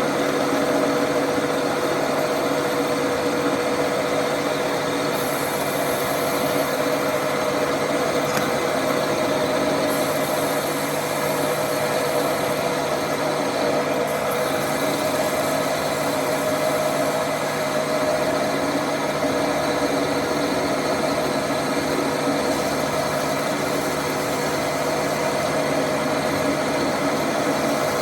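A workshop machine's motor running steadily, giving a constant hum with fixed tones and an even mechanical whir that holds unchanged throughout.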